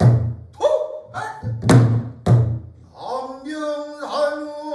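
Pansori barrel drum (buk) struck several times in quick succession by the gosu, with deep booming strokes and sharp rim knocks. About three seconds in, the singer comes in on a long held, wavering sung note.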